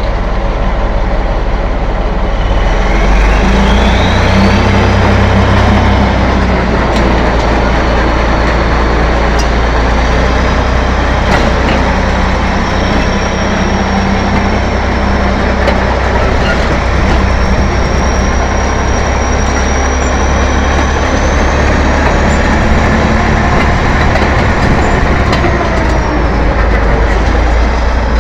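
T-11.01 crawler bulldozer's diesel engine running steadily, with a thin high whine that glides up about three seconds in and then wanders slightly in pitch.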